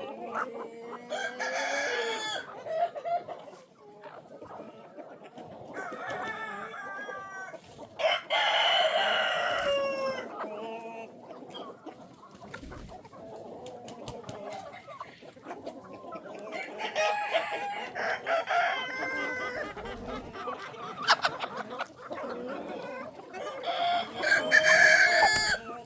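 Chickens clucking, with a rooster crowing several times; the loudest crow comes about eight seconds in.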